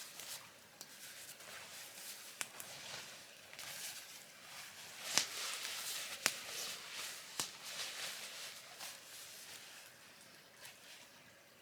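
Soft, irregular rustling, like handling fabric or gear, with four sharp clicks spread through the middle, growing quieter near the end.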